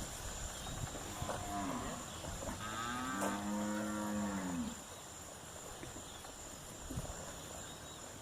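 A farm animal's low call: a short one about a second in, then one long call of about two seconds.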